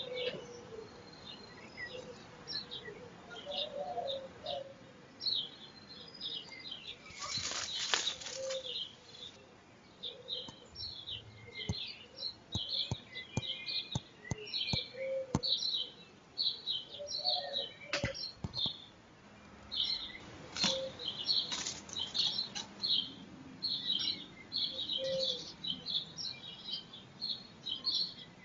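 Wood pigeons flapping their wings at the nest in a few short, loud flurries, about a quarter of the way in and again past the middle. Small garden birds chirp quickly and repeatedly in the background.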